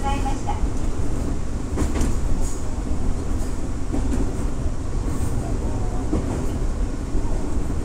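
205 series two-car electric train running, heard from inside its rear cab: a steady low rumble of wheels on rail with a few sharp clicks.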